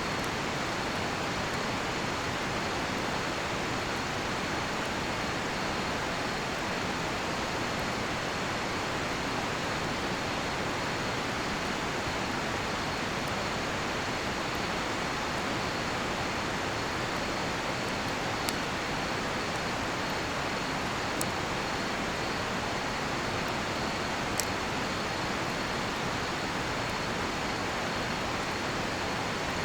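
Steady rushing of a river, with crickets trilling continuously on one high note over it. A cedar-wood campfire gives three sharp pops in the second half.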